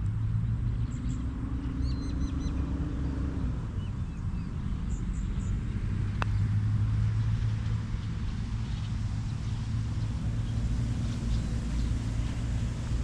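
Steady low hum of a vehicle running, over a low rumble, with birds chirping faintly in the first half and a single sharp click about six seconds in.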